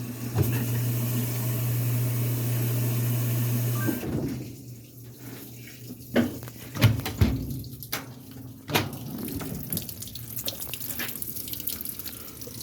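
Washing machine running water in, a rushing flow with a steady hum, cutting off suddenly about four seconds in; a few sharp knocks and clunks follow.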